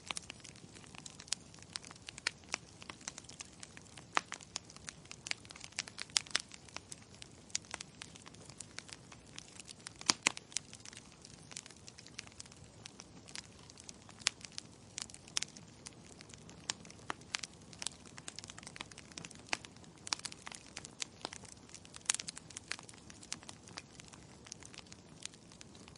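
Wood logs burning in a fireplace: irregular sharp crackles and pops over a soft hiss of flame, with a few louder pops.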